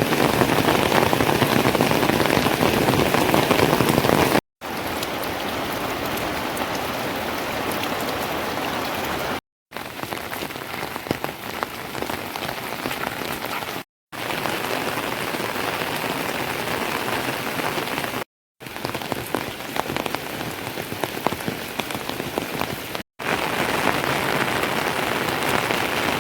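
Steady rain falling, in six separate stretches divided by brief silent cuts; the first stretch is the loudest.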